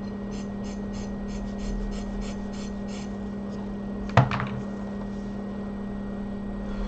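Light scrubbing strokes, about four a second in the first three seconds, as a freshly reballed chip is cleaned of flux and gunk, over a steady low hum. One sharp click about four seconds in.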